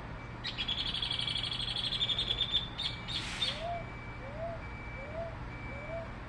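A bird sings a rapid, high trill for about two seconds, followed by a short burst of sound. Then a low, short call begins, repeating about every three quarters of a second.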